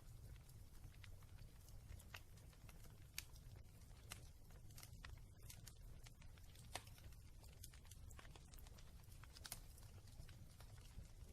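Wood fire in a fireplace crackling faintly: irregular small pops and snaps, a few sharper than the rest, over a steady low rumble.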